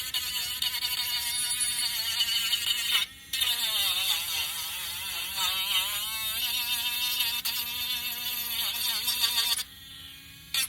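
Small electric sanding tool running against wood, with a motor whine whose pitch wavers and dips as it is pressed in and a gritty hiss of sanding. It stops for a moment about three seconds in and again near the end.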